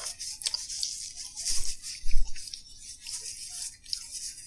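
Close-up eating sounds: chewing with scattered crisp clicks and crackles, and a dull bump about two seconds in.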